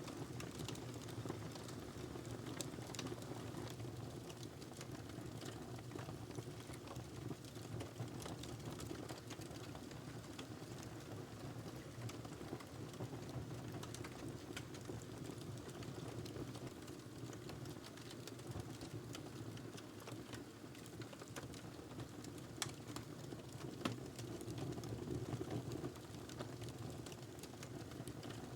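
Wood fire burning in a fireplace: a steady low rush of flame with frequent small crackles and pops, and a couple of louder pops near the end.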